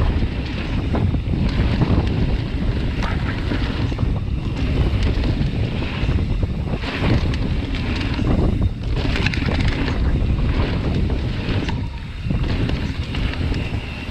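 Wind buffeting the microphone of a camera on a mountain bike riding fast down a dirt trail. Tyre noise runs underneath, with scattered clicks and knocks from the bike over bumps.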